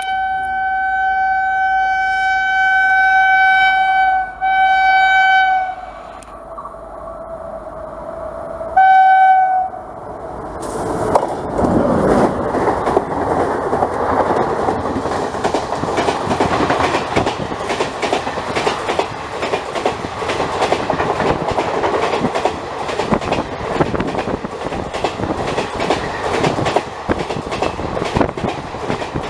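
Indian Railways WAP7 electric locomotive's air horn sounding a long blast of about four seconds, a shorter second blast, a fainter lower note, then a short loud blast near nine seconds. From about ten seconds the train rushes past at speed, with steady clickety-clack of coach wheels over the rail joints.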